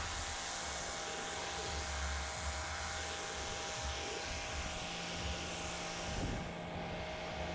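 Steady rushing machine-like noise over a low steady hum; the hiss loses its top end about six and a half seconds in.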